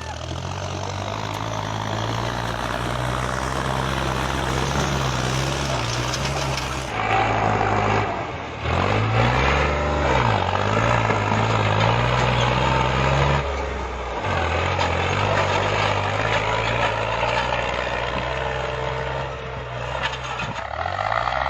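New Holland tractor's diesel engine running hard, its note dipping and picking up again a few times as the load and revs change.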